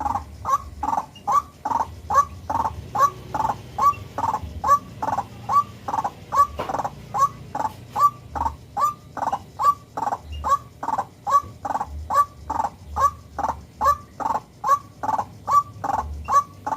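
White-breasted waterhen calling, one harsh note near 1 kHz repeated evenly about two and a half to three times a second without a break.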